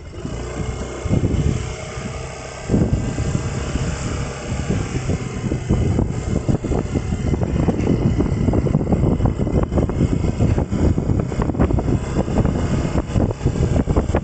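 A motor vehicle's engine pulling away with its pitch rising over the first few seconds, then running on at speed, with wind buffeting the microphone.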